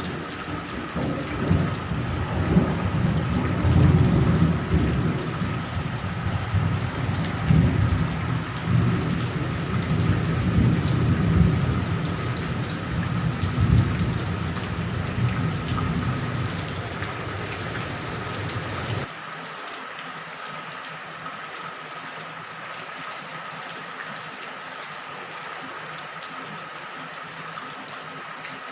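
Steady rain with thunder rumbling low and rolling in waves; about two-thirds of the way through the rumble cuts off suddenly, leaving only the even hiss of the rain.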